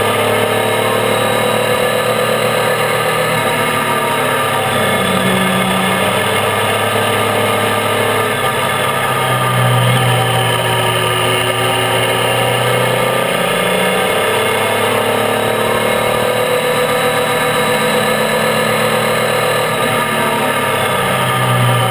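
Triumph Tiger 800's three-cylinder engine running while the motorcycle is ridden, its pitch rising and falling gently as the revs change, over a steady rush of wind and road noise.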